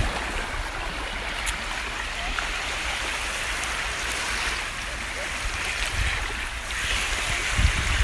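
Steady rush of sea water and waves, with wind buffeting the microphone a few times near the end.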